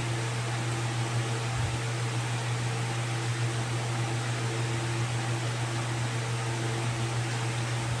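Steady mechanical hum with an even hiss, unchanging throughout, like a running fan or air-conditioning unit.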